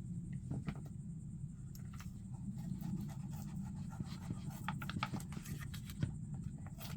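A knife scraping and cutting through a sheet of sound-deadening mat, in scattered short scratches and clicks over a steady low hum.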